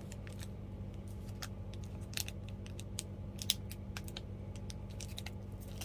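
Scattered light clicks and taps of small packaging and items being handled, with a few sharper clicks, over a steady low electrical hum.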